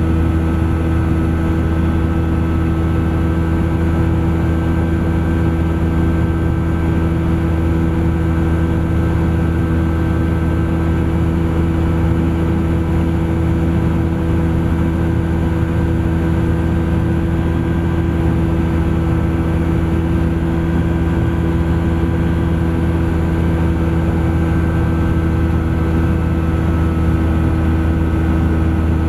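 Thruster ultralight aircraft's engine and propeller in flight, a loud steady drone that holds one pitch throughout.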